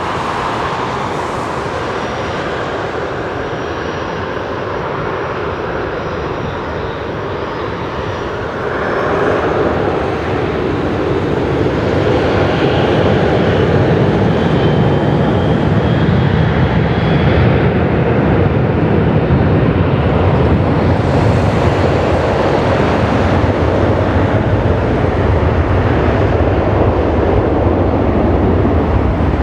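Boeing 737-800's CFM56-7B turbofan engines running. About nine seconds in they grow louder and deeper into a heavy steady jet noise with a faint whine on top, as thrust comes up at the runway 18 line-up.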